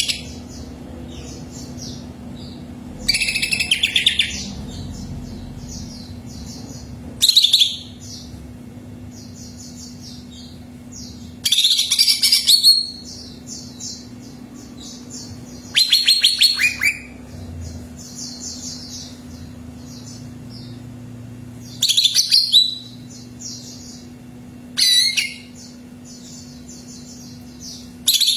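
Greater green leafbird (cucak ijo) singing: loud phrases of rapid, high notes come about every three to four seconds, seven in all. Softer chirping goes on steadily between them, over a steady low hum.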